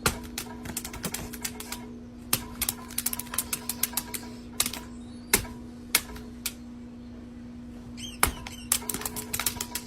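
Irregular run of sharp clicks and taps, in quick clusters with gaps between, over a steady low hum.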